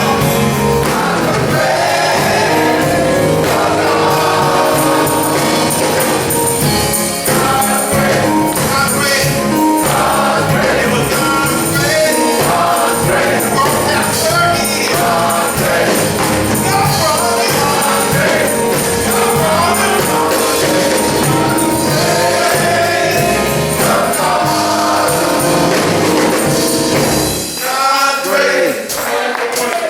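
Gospel choir singing with full band accompaniment. The bass drops away about two seconds before the end.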